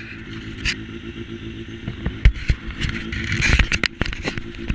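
Motorcycle engine running at a steady low speed, with a series of sharp knocks and clatter over it; the loudest knocks come about two and a half and three and a half seconds in.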